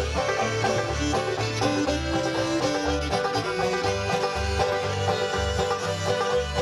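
Old-time string band playing an instrumental break: banjo to the fore with fiddle and guitar over steady bass notes about twice a second.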